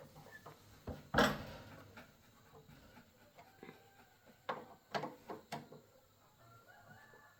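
Objects being handled: one sharp knock about a second in, then a few lighter knocks and clicks.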